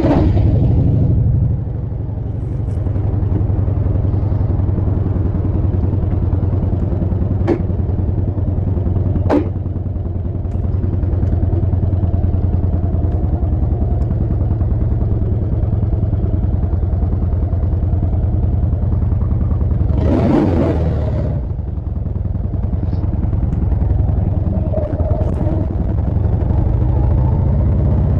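Harley-Davidson Dyna bobber's V-twin engine running steadily under way, with two sharp clicks early on and a short rush of noise about twenty seconds in.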